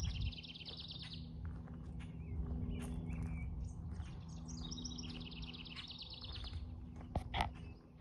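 A songbird singing a fast trill of rapidly repeated high notes, twice, about four seconds apart, over a low steady hum. A couple of sharp knocks near the end.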